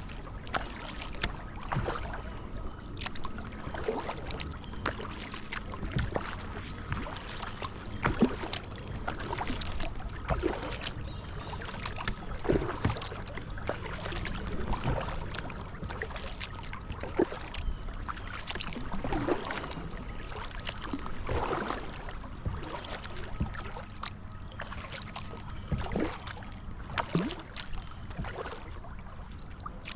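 Kayak paddle strokes dipping and splashing in the water at a steady rhythm, about one every one and a half to two seconds, with water trickling off the blades between strokes and a faint steady hum underneath.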